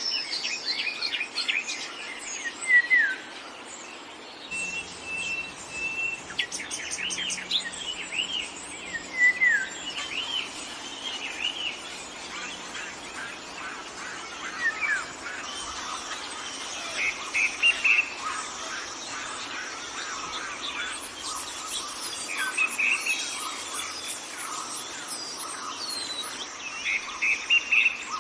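Several birds chirping and singing, short whistles, downslurred calls and trills overlapping, over a steady background hiss of forest ambience.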